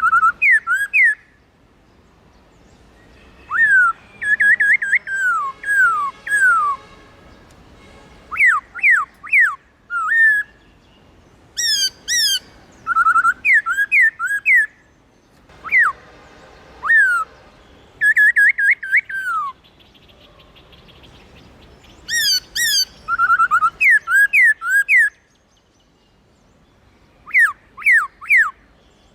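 Black-throated laughingthrush singing: short phrases of loud, clear whistled notes, most sliding down in pitch, repeated again and again with pauses of one to three seconds between them.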